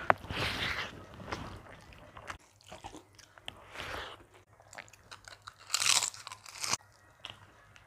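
Close-up eating sounds: irregular crunching bites and chewing, loudest about six seconds in.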